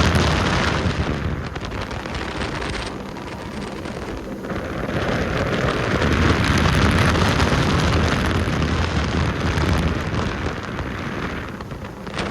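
A vehicle moving at speed with heavy wind buffeting the microphone, the rushing noise and low rumble swelling and easing.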